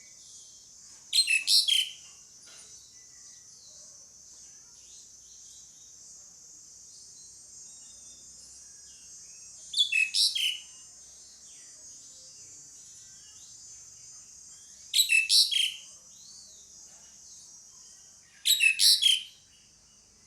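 Asian pied starling giving four short, loud calls, each a quick run of notes lasting about a second, spaced several seconds apart. A steady high hiss runs underneath.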